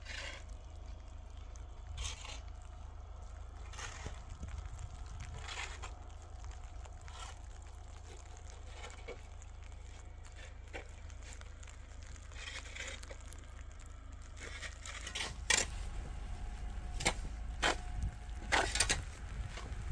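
Scattered crunches and knocks in snow over a steady low rumble, with sharper, louder crunches in the last few seconds.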